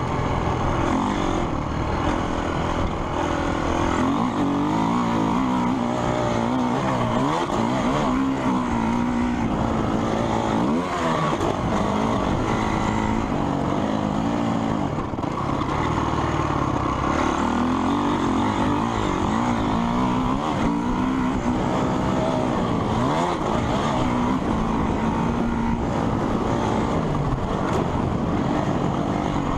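Motocross bike engines on a dirt track, revving up and falling back again and again as the bikes accelerate and shift, with the pitch of more than one engine sweeping over the other at times.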